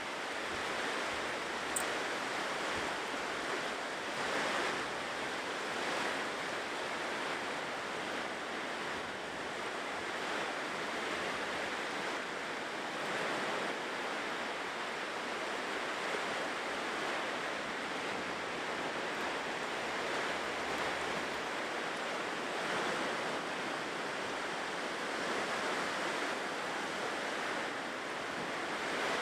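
Ocean waves breaking and washing on a shore, a steady surf with gentle swells every few seconds. A brief sharp click about two seconds in.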